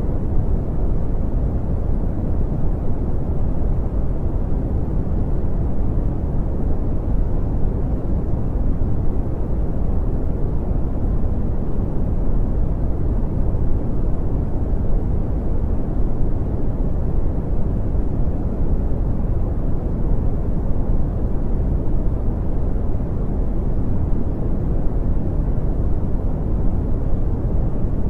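Steady brown noise: an even, deep rumbling hiss with most of its energy in the bass, fading off toward the treble, unchanging throughout.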